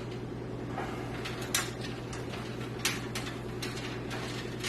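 A few light clicks and taps from handling computer case parts and cables, over a steady low hum.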